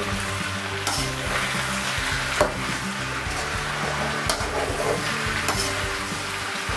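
Potato and capsicum pieces sizzling as they fry in oil in a metal kadhai, stirred with a metal spoon. The spoon scrapes and knocks against the pan a few times, loudest about two and a half seconds in.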